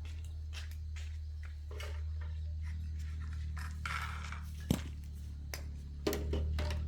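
A steady low hum with scattered light clicks and knocks, like small hard objects being handled, the sharpest just under five seconds in and a few more about a second later.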